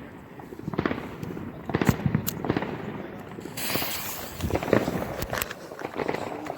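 Fireworks going off: a run of sharp bangs, with a short burst of hiss about three and a half seconds in.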